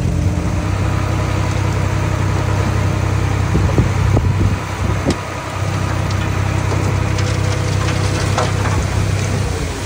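Diesel engine of a mini bulldozer running steadily, with scattered sharp knocks and cracks over it.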